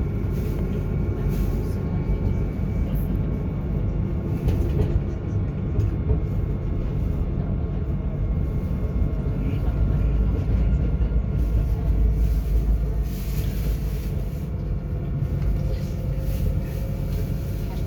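Alstom tram running along its rails, heard from the driver's cab: a steady low rumble with a faint steady whine over it.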